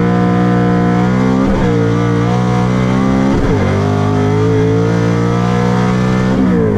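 A drag-racing car's engine accelerating hard under full throttle in a manual-transmission car. It is shifted up twice, about one and a half and three and a half seconds in, and lifts off with falling revs near the end.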